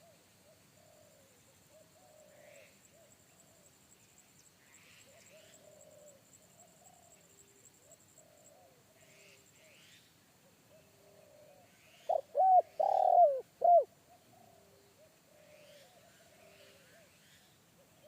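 Spotted doves cooing: faint, repeated coos run throughout, and about two-thirds of the way in one dove gives a single loud coo phrase of several deep notes lasting about two seconds. Small birds chirp faintly, and a thin high insect buzz stops about halfway through.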